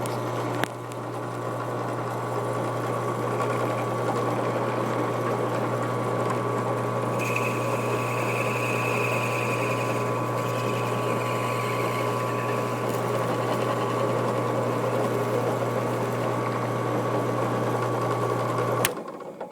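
Benchtop drill press running steadily with a 1/4-inch brad point bit, drilling through two stacked sheets of Kydex; a higher squeal joins for a few seconds midway. Near the end the press is switched off with a click and winds down.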